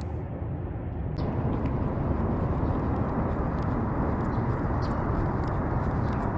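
Steady rushing noise of wind buffeting the microphone outdoors, growing louder about a second in, with faint light clicks running through it.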